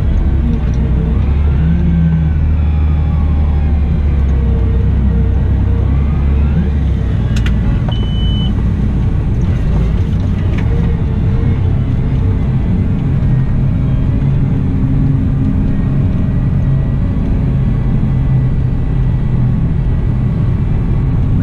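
Cat 972M XE wheel loader's diesel engine running steadily under work, its pitch rising and falling, heaviest and deepest in the first several seconds. A short high beep sounds about eight seconds in, along with a few sharp clicks.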